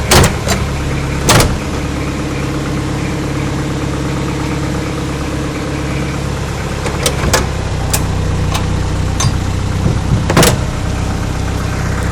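Isuzu 4BE1 3.6-litre four-cylinder diesel idling steadily in a series Land Rover, louder through a hole in the exhaust. Several sharp knocks stand out over it, two right at the start, one about a second and a half in, a few around seven to eight seconds in and a loud one about ten seconds in.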